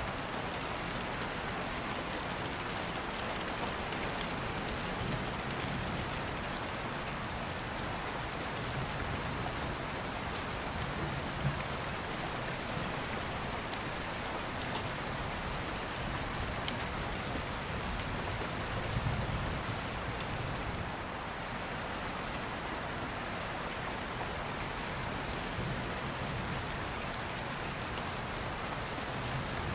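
Steady rain falling on a surface, an even hiss with a few faint sharp clicks scattered through it.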